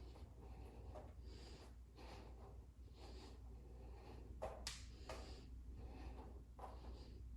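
Faint, audible breathing by a person moving through yoga poses, in soft repeated breaths, with one sharper, louder sound a little past halfway, over a low steady hum.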